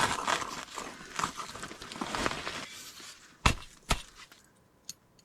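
Rustling and crunching for about three seconds, then two sharp knocks about half a second apart, like handling and knocking gear while working on a camp shelter.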